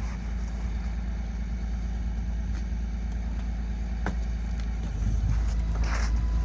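Engine idling steadily with a low rumble, which grows louder about five seconds in; a single sharp click sounds about four seconds in.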